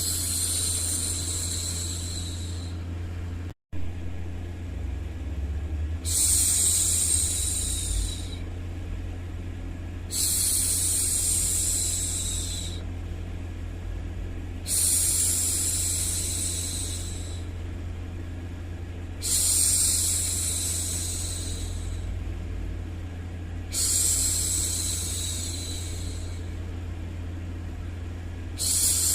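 A woman's voice making long, soft "shhh" hushing sounds, each lasting about two and a half seconds and repeating roughly every four to five seconds, over a steady low rumbling white-noise bed. The sound cuts out for a split second once, near the start.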